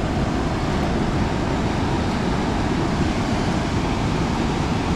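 Steady roar of a fast-flowing river rushing below.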